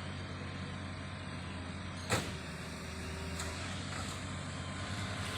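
Heavy-equipment diesel engine running steadily, with one sharp metallic clank about two seconds in.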